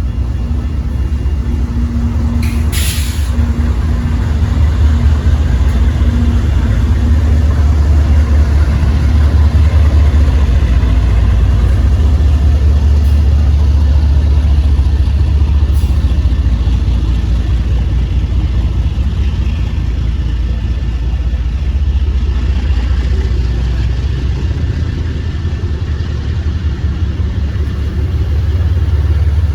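Freight train's diesel locomotives running with a deep, steady rumble, with a short hiss of air, like an air-brake release, about three seconds in.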